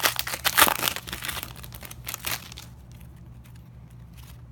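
Foil wrapper of a Panini Contenders football card pack being torn open and crinkled in the hands. The dense crackling stops about two and a half seconds in.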